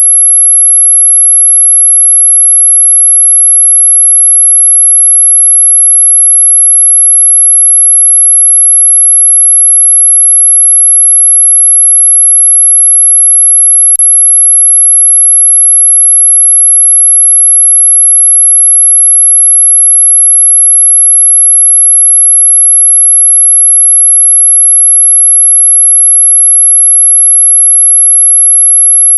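Continuous high-pitched pure tone played as a mosquito-repelling sound, holding one steady pitch throughout, with a faint click about halfway through.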